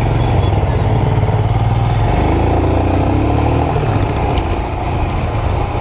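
Motorcycle engine running as the bike rides off, its note climbing about two seconds in as it speeds up.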